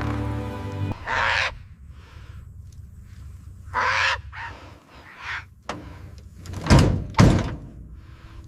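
Background music fades out about a second in. Short rustling noises follow, then two heavy thunks close together near the end.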